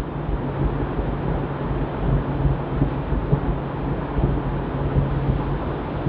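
A boat's engine running with a steady low hum, under a loud rushing of spraying water and wind on the microphone.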